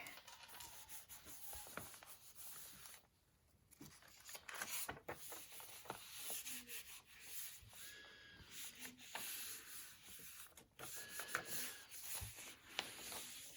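Faint rustling and rubbing of paper, with scattered light taps, as the pages and pocket inserts of a handmade junk journal are handled.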